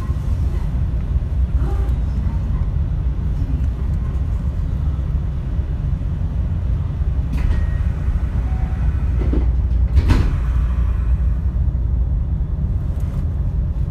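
Steady low rumble inside a car of a JR West 225 series electric multiple unit, with a few short knocks, the loudest about ten seconds in.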